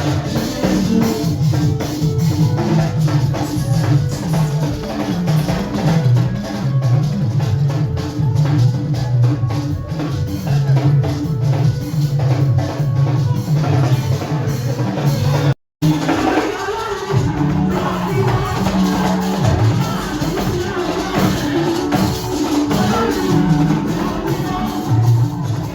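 Church praise music with drums, tambourine and shakers playing a steady dance beat; the sound cuts out for a split second about sixteen seconds in.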